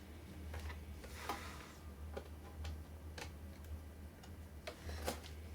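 Irregular light clicks of a small screwdriver working a screw out of a laptop screen's mounting bracket, a few louder clicks among them, over a steady low hum.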